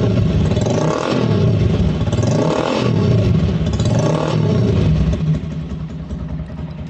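Motorcycle with a bored-out 200 cc engine revved three times through an open, unbaffled exhaust, each blip rising and falling, then dropping back to idle about five seconds in. The revs stay at no more than about 3,000 rpm.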